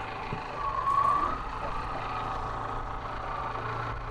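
Band sawmill's engine running steadily, with a whine that swells about a second in and then holds, as the log is pushed into position on the mill.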